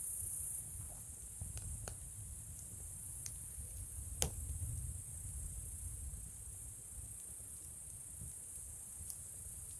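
Wood campfire burning: a low steady rumble with scattered small crackles and one sharp pop about four seconds in.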